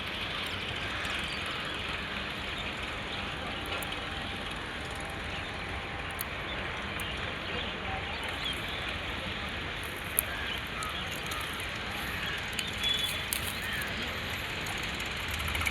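Tractor engine running steadily with a low rumble, with faint voices in the background and a sharp click about ten seconds in.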